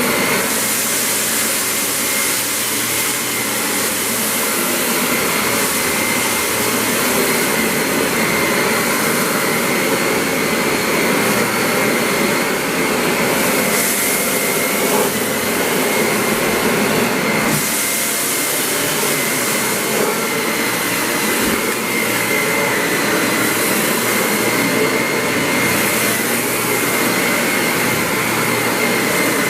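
Samsung VU4000 vacuum cleaner running continuously while cleaning up spilled cat litter on carpet. It is a steady motor whine with a high tone, and the rush of air swells and fades several times.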